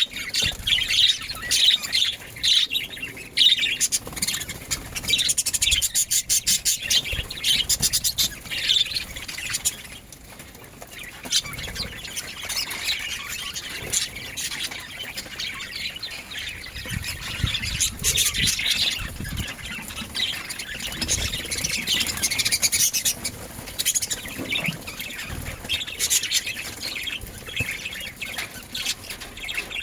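Budgerigars chirping and chattering continuously in short high chirps, with a quick run of rapid clicks about seven seconds in.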